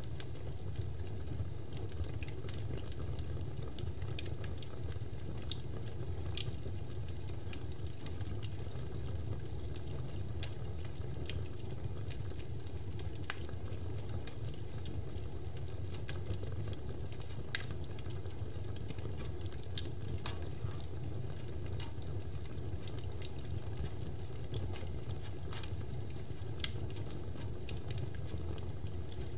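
Large bonfire burning, with scattered sharp crackles and pops over a steady low rumble.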